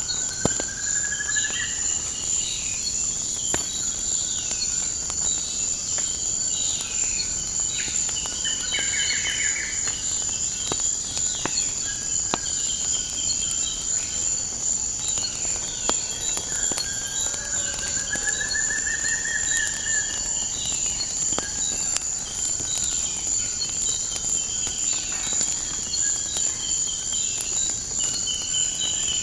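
Nature ambience: a steady high insect drone like crickets, many short bird chirps, and two slow rising bird trills, one at the start and one about two-thirds of the way through. Scattered sharp crackles of a wood fire pop through it.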